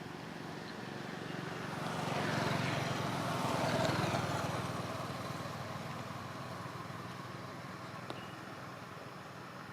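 A motor vehicle passing by, its engine and road noise growing louder over the first few seconds, then fading away slowly.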